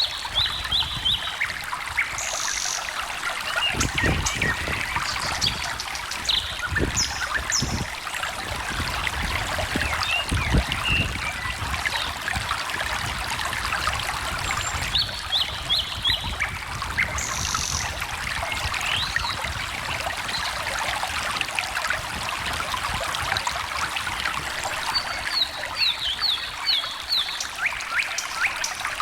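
Small stream trickling and splashing over stones, with songbirds calling now and then in short rapid series of chirps. A few low thumps come in the first half.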